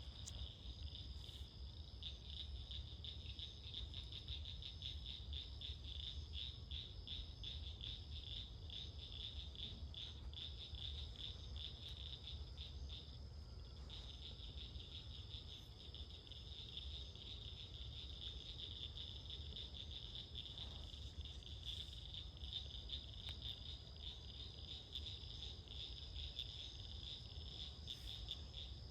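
Night chorus of frogs and insects: a steady, rapidly pulsing high trill that drops out briefly about halfway through, over a steady low rumble.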